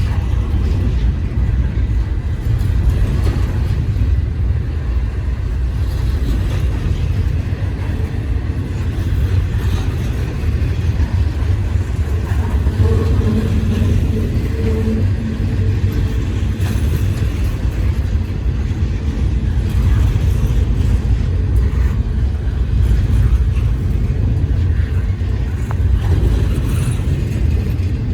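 Freight train rolling past with a steady low rumble, a faint held tone rising above it briefly about halfway through.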